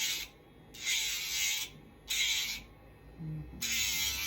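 Electric pet nail grinder sanding a dog's nail in short passes: about four bursts of high grinding noise, each roughly half a second long, as the spinning drum is pressed to the nail and lifted off again.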